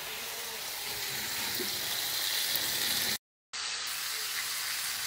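Sliced steak and sliced peppers and onions sizzling steadily in skillets. The sizzle cuts out for a moment a little after three seconds in, then carries on.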